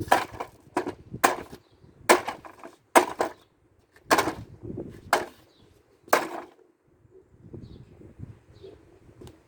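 Hammer blows on hard plastic: about eight sharp, separate whacks at uneven spacing, stopping about six seconds in.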